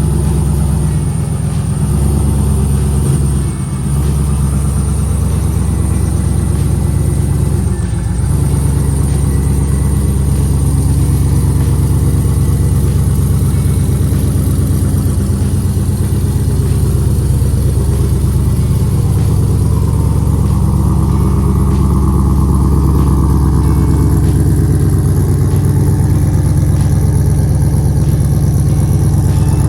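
Chevrolet Camaro's rebuilt LS1 5.7-litre aluminium-block V8 running steadily on its first drive out of the garage.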